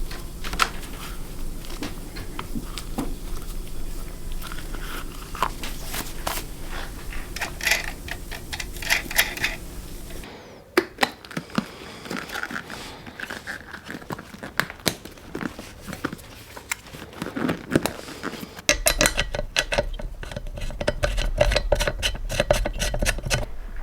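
Workshop handling noises as motorcycle parts are fitted: scattered clicks, light knocks and rattles of small metal and plastic parts and tools. A low steady hum sits under them for the first half and again near the end.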